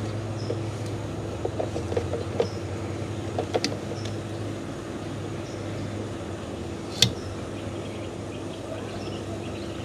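Light clicks and taps of fuel pump parts being handled and fitted together, over a steady low hum. A cluster of small clicks comes a second or two in, and one sharp click about seven seconds in.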